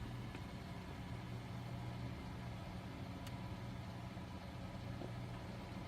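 Steady low mechanical hum, with a faint brief click about three seconds in.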